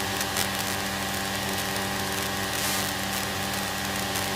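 Light aircraft's piston engine and propeller droning steadily in cruise flight at about 120 mph.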